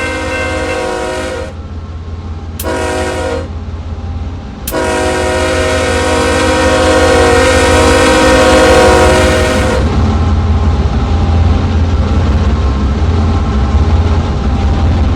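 Norfolk Southern diesel locomotive's air horn sounding a multi-note chord. A long blast ends about a second and a half in, then comes a short blast, then a long blast of about five seconds: the short-then-long close of a grade-crossing signal. The horn then stops, and the train's low rumble and rail noise carry on as it passes.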